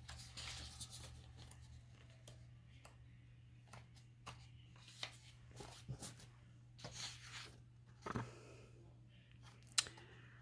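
Sheets of printed paper being handled and sorted, with scattered soft rustles and taps over a steady low hum.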